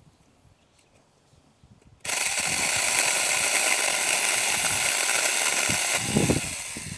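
Small cordless electric chainsaw (Saker 6-inch, 20-volt battery) switched on about two seconds in, its chain running with a steady whine for about four seconds before dying away near the end.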